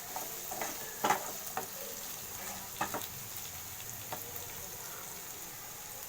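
Chopped onions and capsicum sizzling in hot oil in a pan, with a spatula scraping and clacking against it as they are stirred, most often in the first half.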